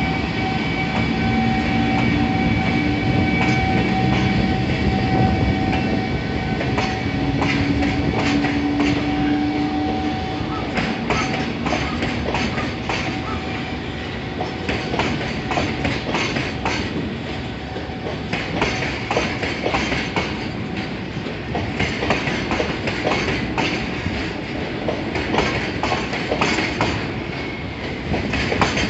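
Eight-car electric commuter train on the move, wheels clacking over rail joints in rapid, uneven clicks; for the first ten seconds or so a steady motor whine sounds over the rumble.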